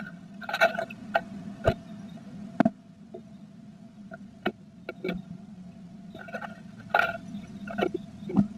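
Blue tit inside a wooden nest box, moving about while building the nest: scattered sharp taps and short scratching, rustling bursts from its claws, beak and nest material. A steady low hum runs underneath.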